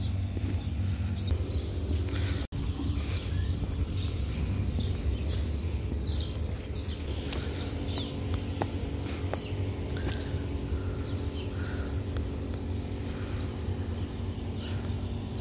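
Small birds chirping with short, falling high calls, several times, over a steady low outdoor rumble with a faint hum. The sound cuts out for an instant about two and a half seconds in.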